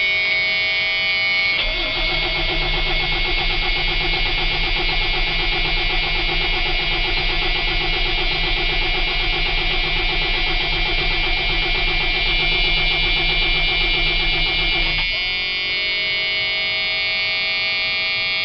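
A Freightliner tow truck's cold Cummins diesel being cranked by its starter for about thirteen seconds without catching, the starter stopping about fifteen seconds in. A steady high-pitched dashboard warning buzzer sounds throughout.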